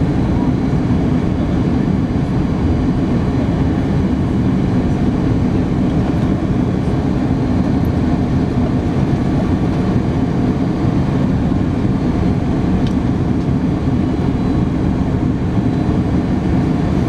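Steady rumble of an Airbus A310-300's engines and rushing air, heard inside the passenger cabin.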